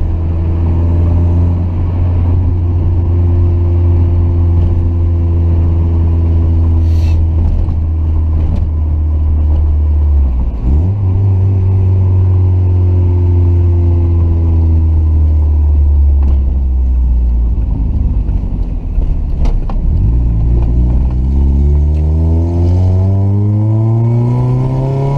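Mazda Miata four-cylinder engine through an aftermarket exhaust with a resonated test pipe and ISIS muffler, heard while driving. The revs fall slowly, jump up suddenly about ten seconds in, then climb hard from about twenty seconds in under acceleration toward 6,000 rpm.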